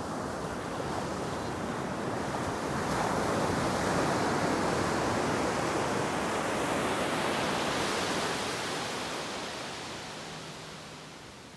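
Ocean wave breaking and washing up the beach: a rushing noise that swells over the first few seconds, holds, and fades away in the last few seconds.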